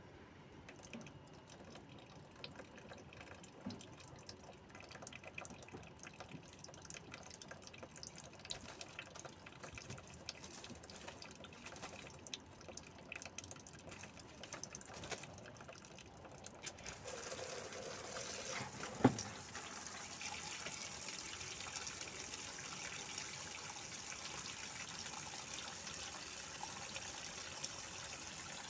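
Faint scattered clicks, then from about seventeen seconds in a steady hiss like running water, with one sharp knock about two seconds later.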